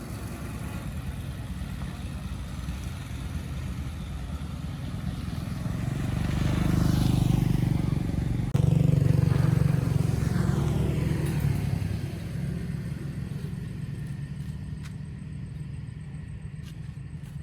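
A motor vehicle engine running, growing louder towards the middle, with a sudden step up in level about halfway through, then slowly fading away.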